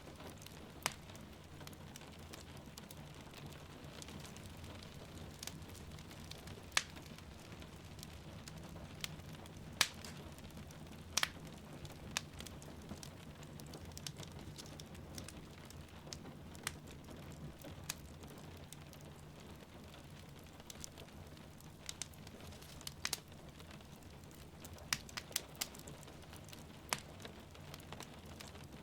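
Wood fire crackling, with irregular sharp pops every second or two, over a steady rush of falling rain.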